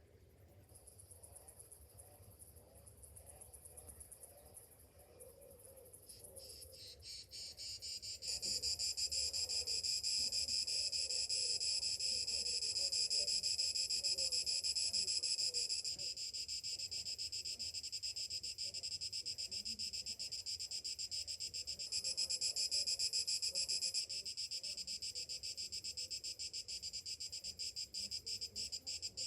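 Cicadas singing: a high, rapidly pulsing buzz that starts faint, swells over the first several seconds, then holds loud and steady, breaking into separate pulses near the end.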